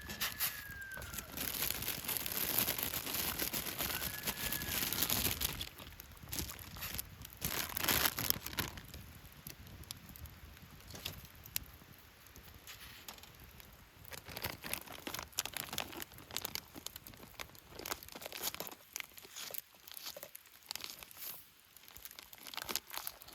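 Crinkling, crumpling and tearing of something being handled, such as plastic packaging, with many scattered sharp clicks. It is busiest over the first several seconds. Two brief high tones sound within the first five seconds.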